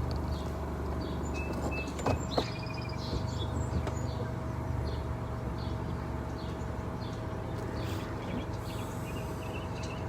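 Car engine idling steadily, with birds chirping and two sharp clicks about two seconds in.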